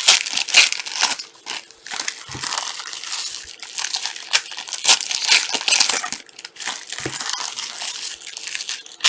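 Plastic wrapping of trading-card boxes and packs crinkling and crumpling as it is handled and torn, in irregular rustling bursts.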